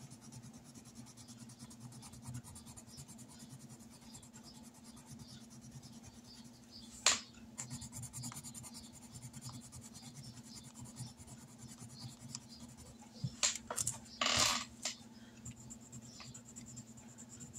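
Faint scratching of coloring in squares on a paper savings-challenge chart, with a sharp click about seven seconds in and a few louder knocks near the end. A low steady hum runs underneath.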